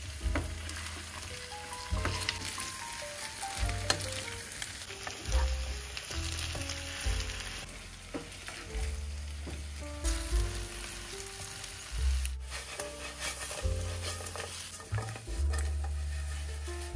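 Food sizzling as it fries in oil in a pan, with a spatula stirring and scraping now and then. Background music with a melody and bass notes plays throughout.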